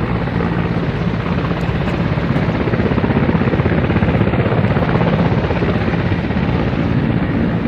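Helicopter running nearby, its rotor beating steadily.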